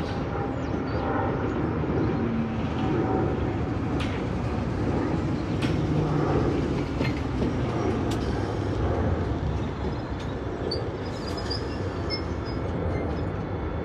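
Bakerloo line 1972 Stock tube train running into the station alongside the platform, a steady rumble of wheels on rail with scattered sharp clicks.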